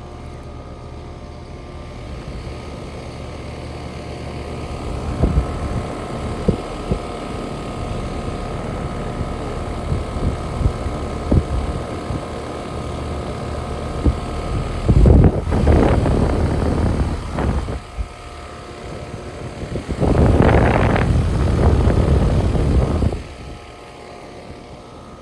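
A steady machine hum holding several fixed tones, with scattered sharp knocks and two loud, noisy swells lasting two to three seconds each in the second half.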